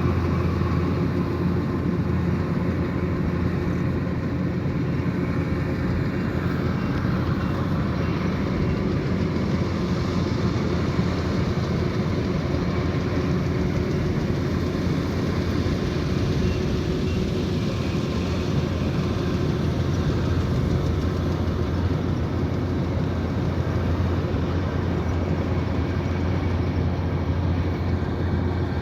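Kubota DC108X combine harvester running steadily, a constant low engine hum that keeps the same pace throughout.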